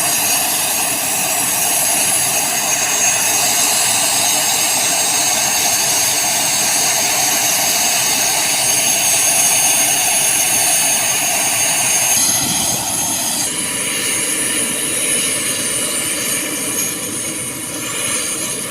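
Mi-17 helicopter's twin turboshaft engines and rotor running loud and steady, with a high turbine whine over the noise. The sound shifts and drops a little about twelve to thirteen seconds in.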